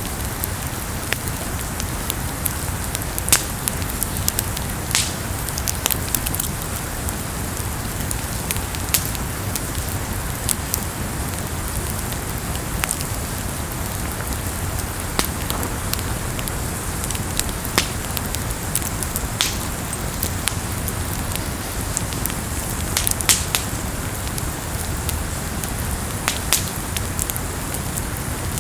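Campfire burning: a steady hiss with irregular sharp crackles and pops from the burning wood.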